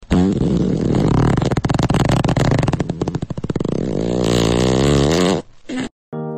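Air escaping through the stretched neck of a rubber balloon, a long buzzing, fart-like raspberry whose pitch wavers and rises near the end. It stops about five and a half seconds in, and one short blurt follows.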